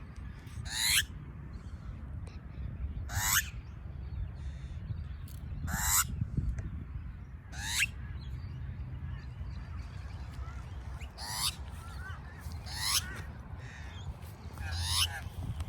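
A bird calling at a puppy, about seven sharp calls each sweeping steeply down in pitch, roughly one every two seconds, over a steady low rumble.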